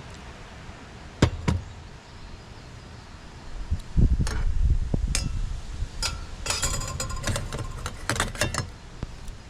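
Handling noise from camp gear: two sharp knocks, a low thump, then a quick run of ringing metallic clinks, as of hard objects knocked and set together.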